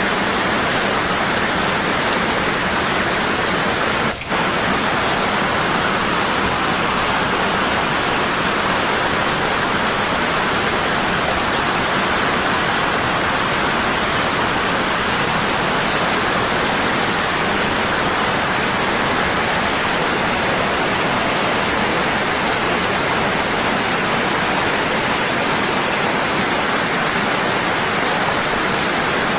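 Waterfall falling strongly and constantly: a steady, even rush of water, with a momentary dip in level about four seconds in.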